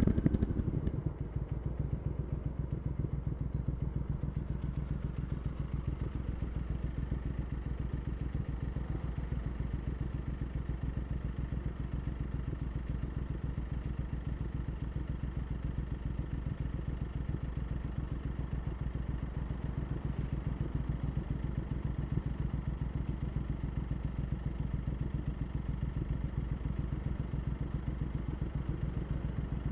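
Triumph Scrambler 900's parallel-twin engine through aftermarket Arrow exhaust pipes, dropping from a louder run about a second in and then running at a steady, even low-rev pulse, like ticking over at idle.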